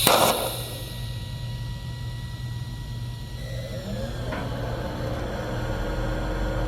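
TIG welding arc on thin exhaust heat-shield metal, striking with a sharp hiss at the start and then running with a steady buzzing hum.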